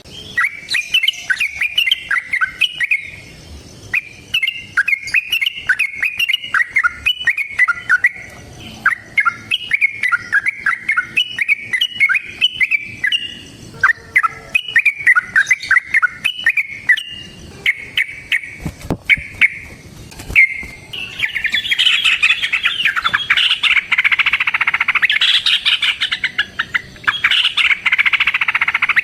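Yellow-vented bulbul (trucukan) singing fast, chattering phrases one after another, long 'ropel' song. About two-thirds of the way through, the song becomes denser and louder, in an almost unbroken run.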